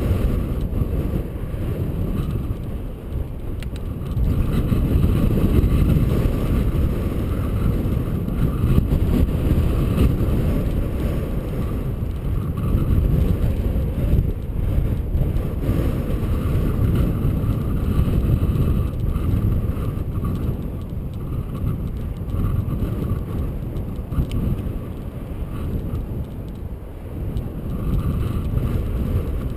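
Wind rumbling unevenly on a GoPro's microphone while riding a bicycle along a path, with riding noise underneath.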